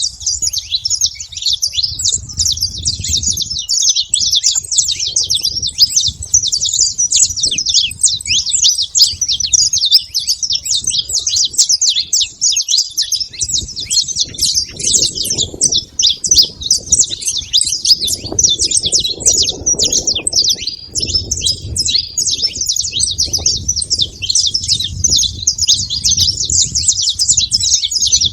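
A flock of saffron finches chirping continuously, many quick overlapping calls with no pause.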